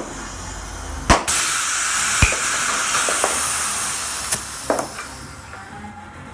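Compressed air hissing, as from an air chuck or blow gun, starting with a sharp click and running for about three seconds before fading out. A few sharp knocks sound over it.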